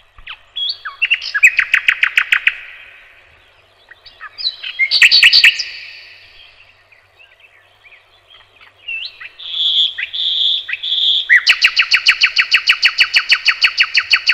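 Songbird singing: short phrases of rapid trilled notes with pauses between, then three separate clear notes, then a long fast trill of about three seconds that runs to the end.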